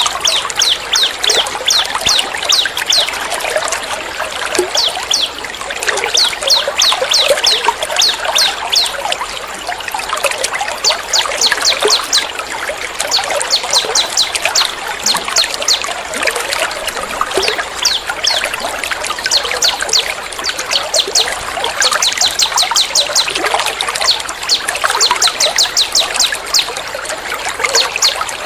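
Songbird calls in bursts of fast, sharp, high-pitched notes, repeated again and again, over a steady trickle of running water.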